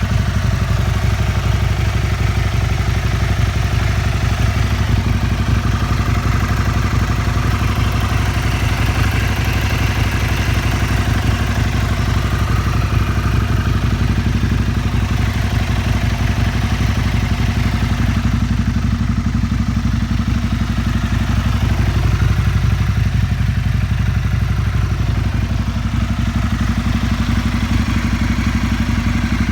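Aprilia SL 1000 Falco's 60-degree V-twin idling steadily through a full LeoVince SBK aftermarket exhaust, with a fast, even lumpy beat and no revving.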